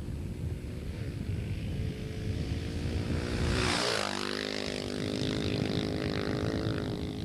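Husqvarna 610 dirt bike's single-cylinder four-stroke engine passing close by on studded ice tires. It gets louder with a burst of hiss at its nearest point about halfway through, and its pitch drops sharply as it goes past, then it runs on steadily as it moves away.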